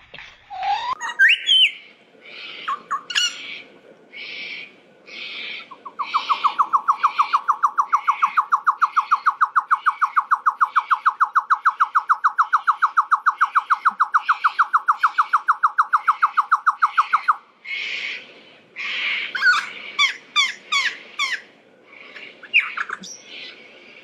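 A bird calling: a long, rapid, even trill of about eleven seconds in the middle, over a run of repeated harsh rasping notes, with chirps and quick whistled sweeps before and after it.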